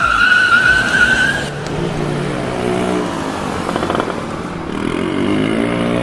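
Vehicle engine revving as the race starts. There is a high steady whine for the first second and a half, then an engine note that climbs in pitch near the end.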